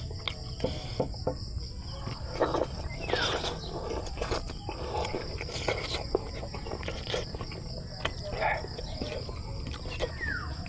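Close-up chewing and mouth sounds of eating, with scattered sharp clicks and smacks, over a steady high-pitched chorus of insects.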